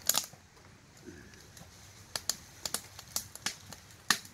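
Log campfire crackling, with irregular sharp pops, the loudest just after the start and near the end.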